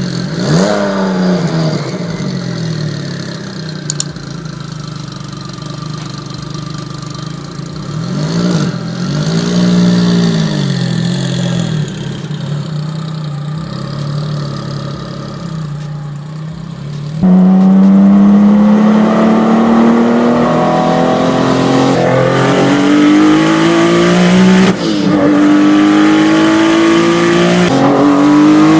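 Supercar engine revving and accelerating, its pitch rising and falling with the revs. About two-thirds in it gets suddenly much louder and climbs hard through the gears, the pitch dropping briefly at each of about three upshifts.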